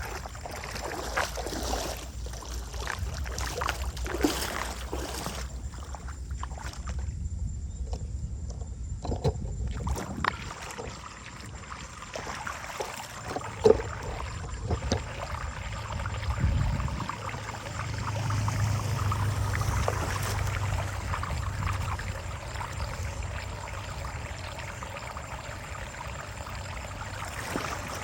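Water sloshing and splashing in a storm drain, with scattered knocks and a sharp click about halfway through.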